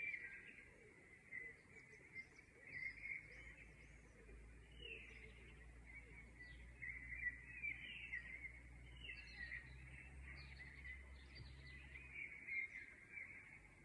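Songbirds chirping and trilling, many short overlapping calls, faint. A steady low rumble runs underneath from about three seconds in until shortly before the end.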